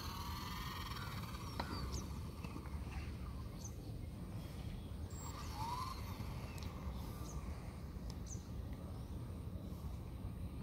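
Birds calling: a warbling call that rises in pitch at the start and a short rising call around the middle, with a few brief high chirps in between, over a steady low background rumble.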